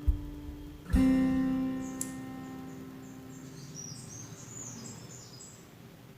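Background music: an acoustic guitar strum about a second in that rings out and fades, with a run of high chirps over it.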